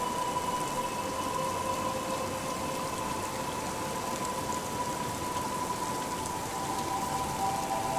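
Gentle rain falling steadily, a soft even patter, with a few soft held musical tones sounding beneath it.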